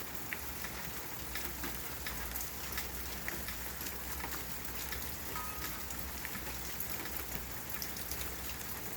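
Light rain falling steadily, with many small drops ticking on hard surfaces.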